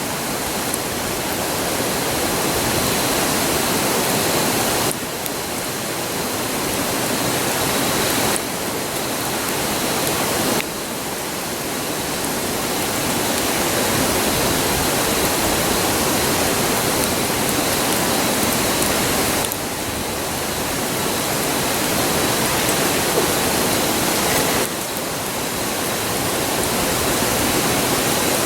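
A river's steady rushing roar fills the sound, with a few faint pops from the campfire. The roar's level steps down and up abruptly a few times.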